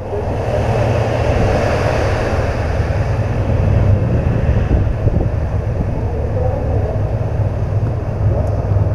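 Steady wind rush over a motorcycle rider's microphone, with the low, even drone of a BMW R1200 GS Adventure's boxer-twin engine underneath at cruising speed.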